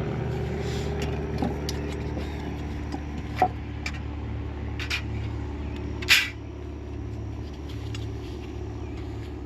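Parts being worked off a 6.7 Powerstroke diesel engine during teardown: scattered knocks and clinks, the loudest about six seconds in. A steady low hum runs underneath.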